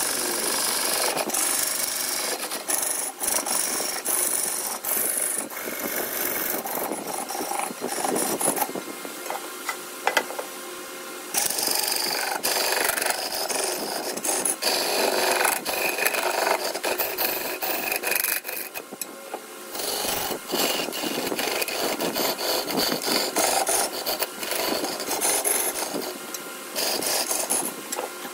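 Wood lathe work: a tool scrapes and rasps against the spinning wooden blank in long stretches, with brief pauses about ten seconds in and again near twenty seconds.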